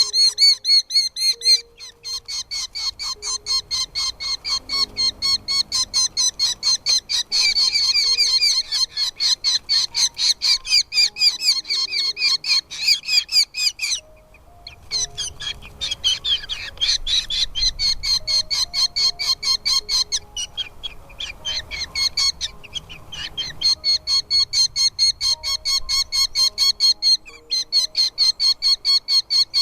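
Nestling chicks, said to be falcon chicks, giving rapid, repeated high begging chirps, several a second, as they are fed in the nest; the calling breaks off briefly twice. Faint background music runs underneath.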